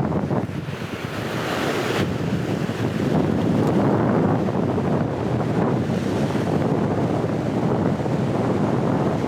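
Strong gale-force wind buffeting the microphone over the rush of sea swell and surf, a loud steady noise. About a second in, a brighter hissing wash swells up and cuts off suddenly.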